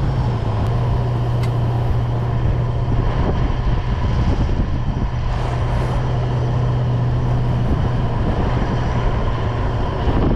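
A vehicle engine running steadily while driving, with a constant low hum and road noise; the pitch drops slightly near the end.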